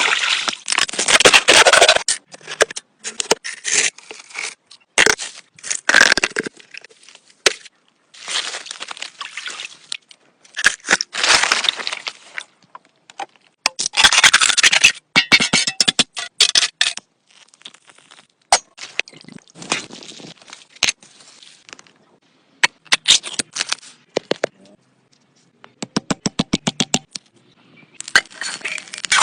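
Irregular bursts of scraping and cracking with sharp clicks between them, and a quick run of about ten ticks a second near the end.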